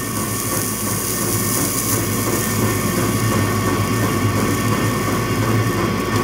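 Steady electrical hum with a constant hiss, unbroken throughout, with no knocks or clicks.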